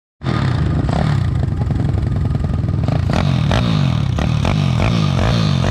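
Pit bike engine running hard and revving, its pitch rising and falling repeatedly, with clattering knocks from about three seconds in.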